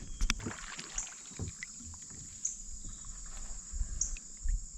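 Faint knocks and bumps of a fishing kayak being moved and handled on the water, with a few clicks near the start. Under them runs a steady high-pitched drone that swells briefly about every one and a half seconds.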